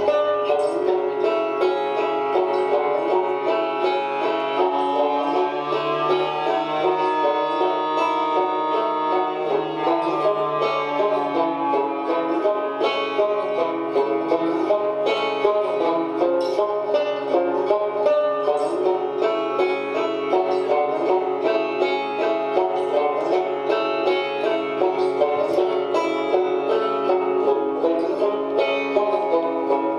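Instrumental banjo music: a fast run of plucked banjo notes over a steady accompaniment, in a bluegrass style.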